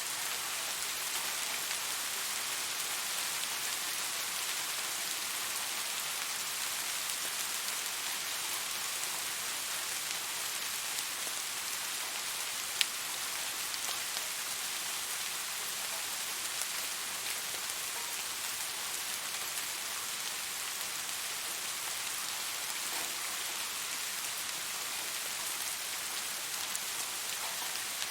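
Steady rain falling, an even hiss of drops on surfaces, with one sharp drip or tick about halfway through.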